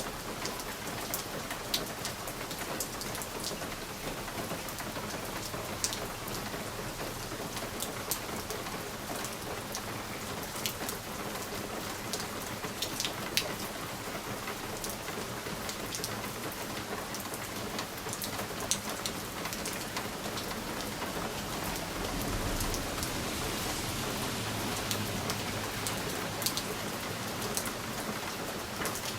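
Steady rain on a window pane, with single drops ticking sharply against the glass now and then. About two-thirds of the way through, a low rumble of distant thunder swells for a few seconds and fades.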